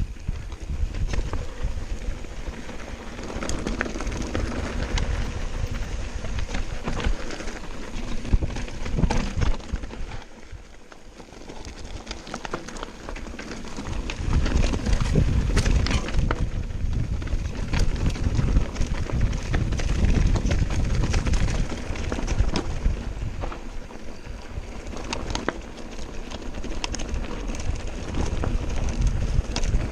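Mountain bike rattling down a rough trail: tyres crunching over stones with frequent sharp knocks and rattles, over a low rumble of wind on the microphone. It eases off briefly about a third of the way in, then picks up again.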